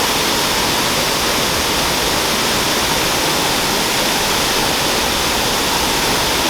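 Waterfall rushing, a loud steady noise of falling water with no change.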